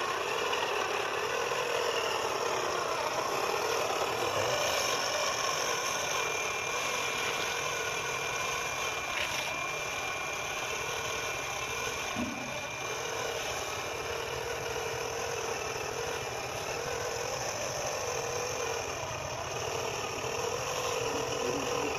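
Small electric gear motor of a homemade RC tractor running steadily, its whine rising and falling slightly in pitch as it works.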